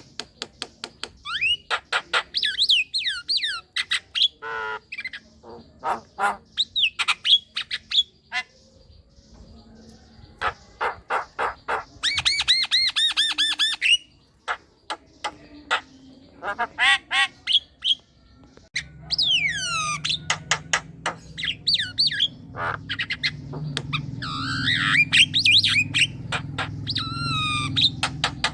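Javan myna in full song: a fast, varied run of harsh squawks, sharp clicks and sweeping, falling whistles with short gaps between phrases. A steady low hum comes in about two-thirds of the way through.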